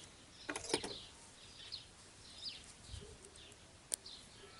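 Clicks and light knocks from motor parts being handled and fitted back into place: a quick cluster about half a second in and one sharp click near the end. Small birds chirp repeatedly in the background.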